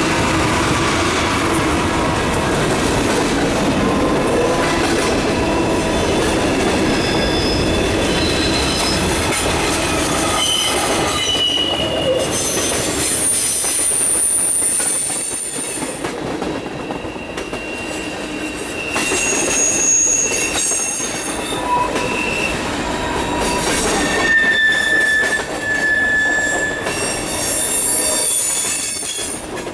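Diesel-hauled freight train passing close by: the trailing diesel locomotives rumble past for the first ten seconds or so, then tank cars and coil-steel cars roll by with clattering wheels and thin, intermittent high-pitched wheel squeals.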